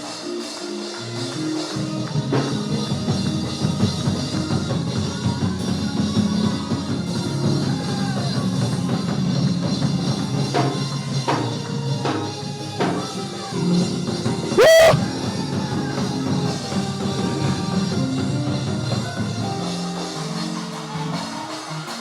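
Church band playing upbeat gospel music on drum kit and other instruments. About two-thirds of the way through, a brief, loud, shrill squeal rising in pitch cuts over the music.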